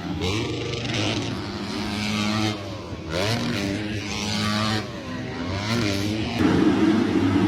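Four-stroke motocross bike engine revving up and falling back several times, as on throttle through corners and jumps, louder near the end.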